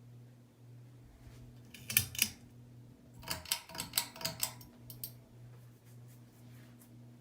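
Lasko American Classic ceiling fan running with a steady low motor hum. About two seconds in come a couple of sharp metallic clicks, then a quick run of clicks and rattles from about three to five seconds in.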